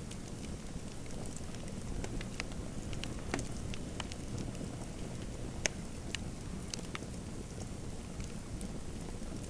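Fireplace fire crackling: a steady low rumble with scattered sharp pops, busiest from about two to seven seconds in.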